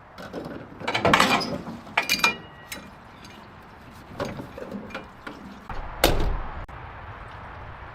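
A series of irregular mechanical clunks and rattles, the loudest about a second in and another sharp one about six seconds in.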